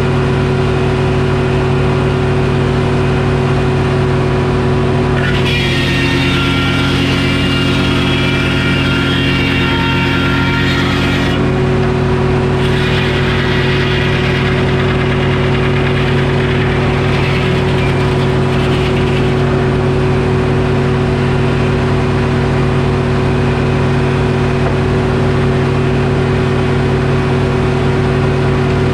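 Detroit Diesel engine running steadily, powering a Frick circular sawmill. About five seconds in, a brighter ringing hiss joins for about six seconds as the blade cuts through the oak log, and a fainter stretch of it follows.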